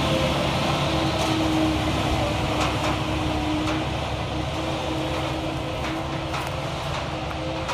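Concrete mixer truck's diesel engine pulling hard up a very steep grade: a steady drone with a held whine that slowly fades.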